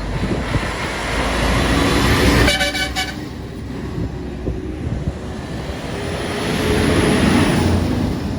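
Road traffic with trucks passing. A vehicle horn gives a short, rapidly pulsing toot about two and a half seconds in, and another vehicle swells past loudly near the end.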